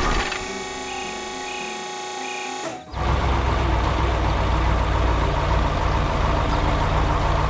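Heavy vehicle engine sound effect: a quieter passage with three short high beeps, then about three seconds in a sudden switch to a louder, steady low engine rumble.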